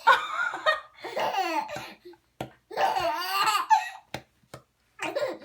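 Hearty laughter in three long bouts of high, sliding voice, each about a second long, with short pauses between.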